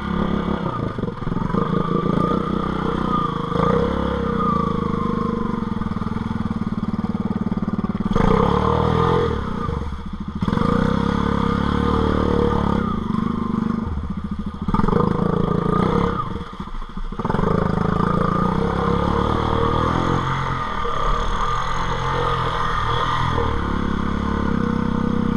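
A quad's (ATV's) engine running under throttle as it is ridden, with the revs dropping off briefly about ten, fourteen and sixteen seconds in before picking up again.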